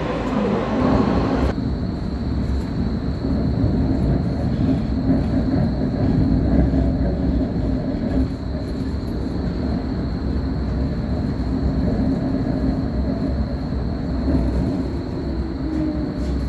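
Train running on rails: a steady low rumble with a faint, constant high whine.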